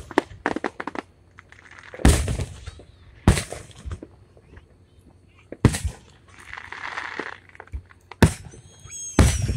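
Aerial firework shells bursting: five sharp booms a second or two apart, with smaller crackling pops in between.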